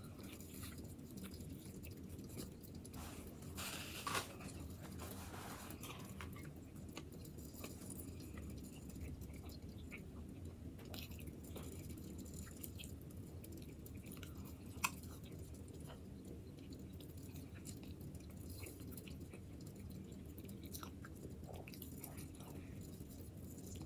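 A man chewing a mouthful of cheeseburger with close, faint wet mouth sounds and small clicks, with a brief sharper click about fifteen seconds in.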